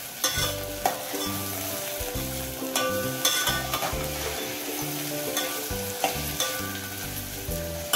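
Onions, garlic and shevli stalks sizzling in oil in a stainless steel pot while a steel spatula stirs them, scraping and clicking against the pot several times. Background music plays underneath.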